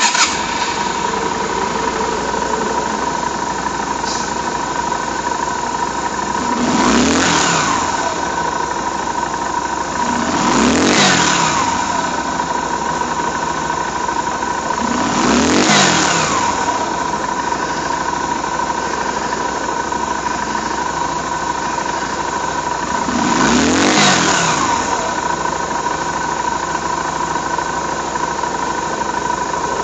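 Yamaha Virago 250's air-cooled V-twin idling, blipped four times. Each rev rises and falls back to idle within about a second.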